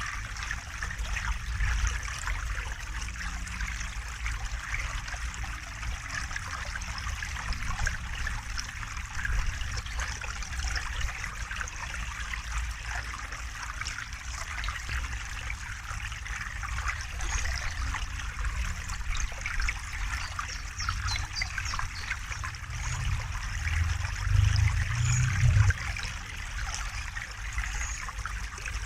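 River water flowing steadily, an even trickling rush. A brief low rumble swells up about three-quarters of the way through.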